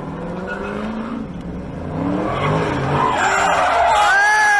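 A car engine revving hard, its pitch climbing and dropping back several times, with the noise building. Near the end the tyres squeal in a skid.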